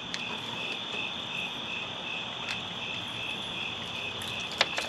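Night insects chirping in a regular pulse about three times a second over a steady high buzz, with a couple of sharp clicks near the end.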